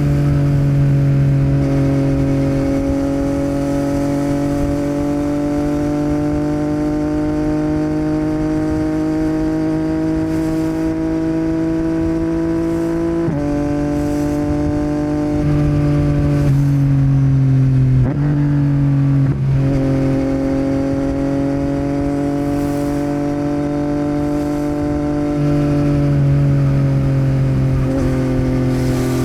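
Yamaha MT-09 inline three-cylinder engine running through a Yoshimura R77 exhaust while riding, its note rising slowly under steady throttle. About 13 seconds in the pitch drops sharply at a gear change. Around 18 to 20 seconds it dips and picks up again, then climbs once more and eases off near the end.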